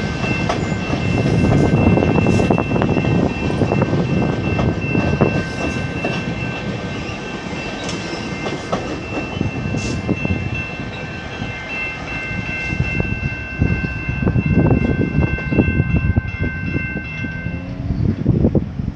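Commuter train rolling past with rumbling and wheel clatter over the rail joints. A steady high-pitched multi-tone signal sounds over it and stops near the end.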